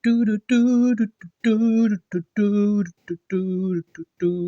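A single voice singing a slow tune unaccompanied: a string of held notes, each about half a second long, joined by short syllables.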